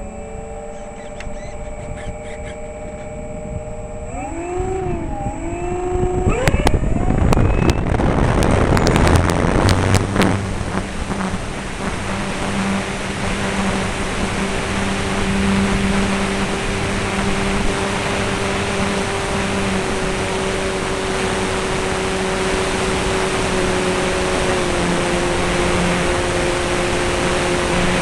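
RC aerobatic model airplane's motor and propeller throttling up with a rising tone that dips briefly about four seconds in; from about six seconds a loud rush of propeller and wind noise sets in, and the motor then holds a steady tone.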